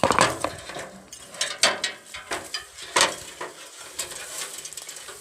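Irregular rustling and crackling, a quick run of sharp clicks of uneven spacing, the loudest about three seconds in.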